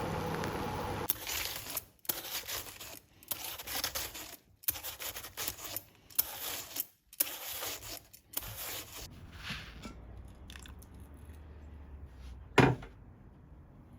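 Kitchen preparation noises: a run of short, irregular scraping and rustling strokes for several seconds, then one sharp knock near the end.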